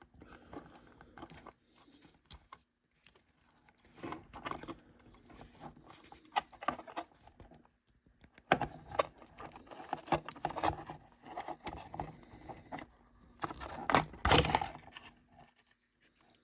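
Small plastic and metal parts of an opened HO-scale model boxcar being handled: irregular clicks, rattles and light scrapes in scattered bunches, the loudest near the end.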